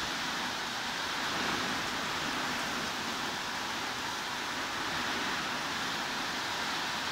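Steady heavy rain, an even hiss without single drops or changes in level.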